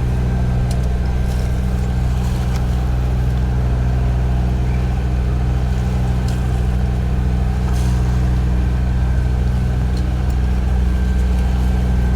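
A sailing boat's motor running steadily under way, a low, even drone.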